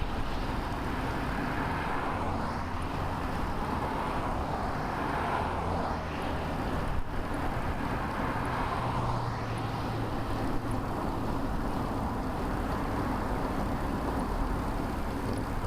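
Wind rushing over a bicycle-mounted camera's microphone, with the rumble of motor traffic that swells and fades a few times as vehicles pass.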